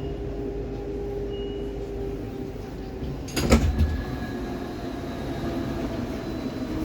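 Inside a 'Baltiets' metro train car standing at a station: a steady hum from the onboard equipment, with several held tones, one dropping out and others starting about halfway through. A loud, short clatter comes about three and a half seconds in.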